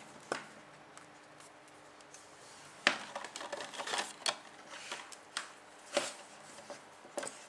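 Writing strokes on a board: a series of short, irregular scratches and taps as a diagram is drawn, the sharpest about three and six seconds in.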